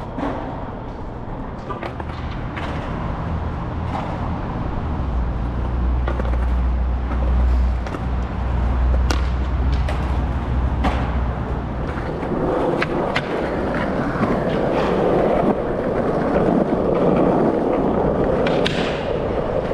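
Skateboard wheels rolling over concrete, with sharp clacks of the board and trucks striking the ground several times, and a low rumble through the middle.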